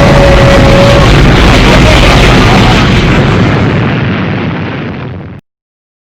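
A loud, rumbling explosion sound effect, a dense roar that fades away over a couple of seconds and then cuts off abruptly to silence.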